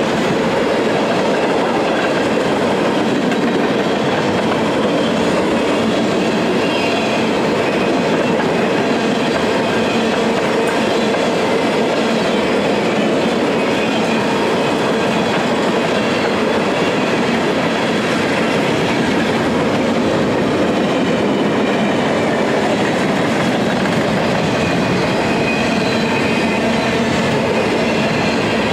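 A train's railcars rolling past on the track: a loud, steady, unbroken rolling noise of steel wheels on rail.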